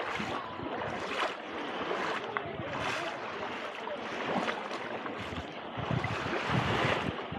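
Small sea waves washing onto the beach: a steady wash of surf that swells and eases every second or two.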